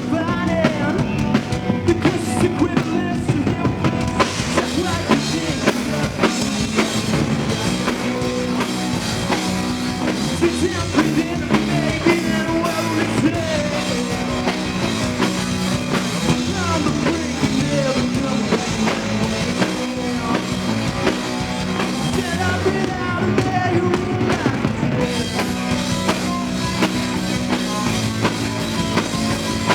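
Live rock band playing a song, driven by a drum kit, with singing in places.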